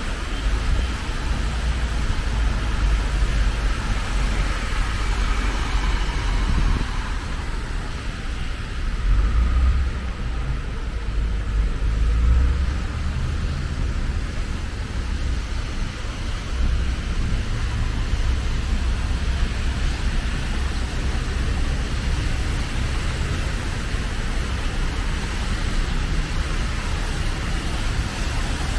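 Steady road traffic noise with a deep low rumble that swells and eases now and then.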